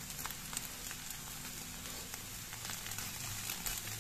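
Eggs and spring onions frying in a nonstick pan, a steady sizzle with faint scattered crackles.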